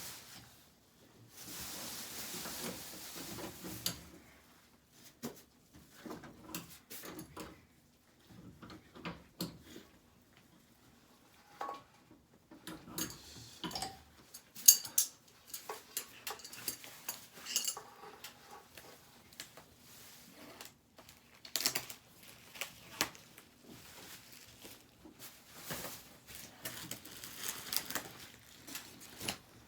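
Hard parts being handled during work on an air conditioner's indoor unit: scattered clinks and knocks, with a stretch of rustling about two seconds in and one sharp knock about halfway through.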